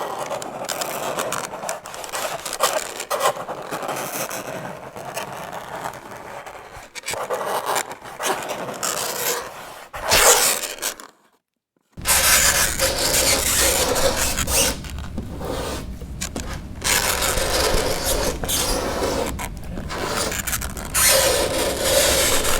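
Fingernails scraping across a chalkboard in continuous strokes, with a squealing edge. It cuts out completely for about a second near the middle, then carries on.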